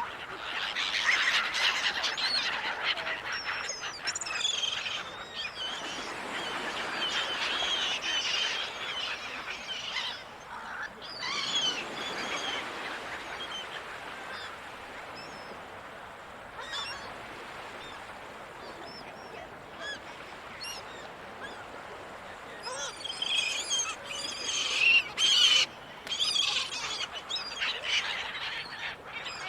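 A flock of gulls calling, many overlapping cries in bursts near the start, again briefly about eleven seconds in, and loudest near the end, over a steady wash of sea.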